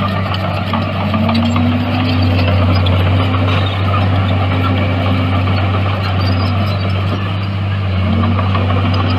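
Heavy diesel engine of earthmoving equipment running steadily under load, its pitch dipping and climbing back about a second in and shifting again near the end.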